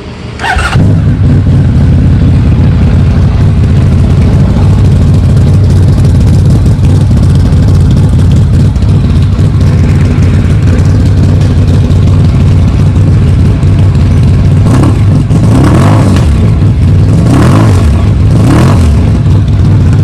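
Honda VFR1200F's V4 motorcycle engine starting up and settling into a steady idle through its exhaust. It is then blipped with the throttle about four times in quick succession near the end, each rev rising and dropping back.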